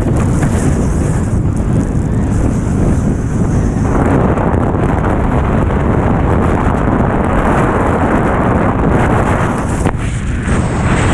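Strong wind buffeting the microphone in a steady, loud rush, growing heavier about four seconds in and easing briefly near the end: a gusty wind of over twenty knots.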